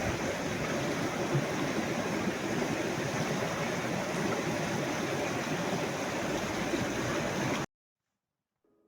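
Mountain river rushing steadily, cutting off suddenly near the end.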